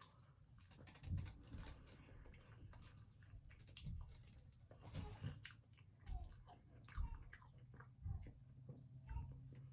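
A person chewing and biting into barbecue chicken wings close to the microphone: faint, irregular chewing with soft thumps and small crunches.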